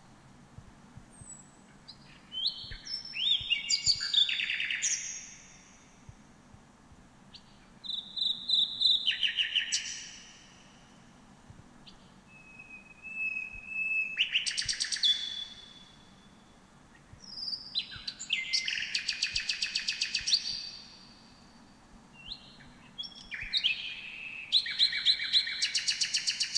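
A songbird singing: five phrases of high, quick whistled notes, each ending in a fast trill, repeated about every five seconds with short pauses between.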